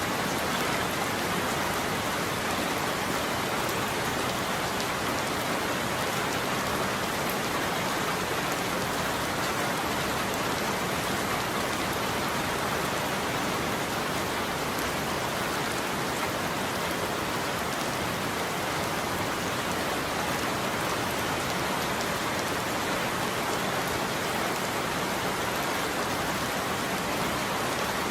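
Steady heavy rain falling on a surface, an even hiss of many drops with no thunder.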